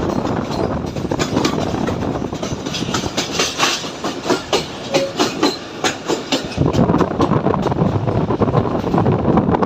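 Train running on the rails, with a run of sharp clickety-clack wheel clicks over rail joints in the middle, then a heavier low rumble near the end.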